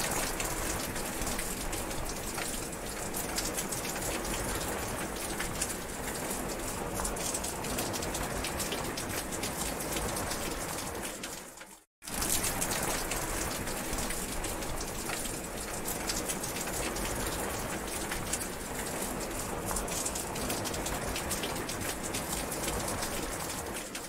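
Rain falling steadily, a dense patter of drops. About halfway through it fades out to silence for a moment, then fades straight back in.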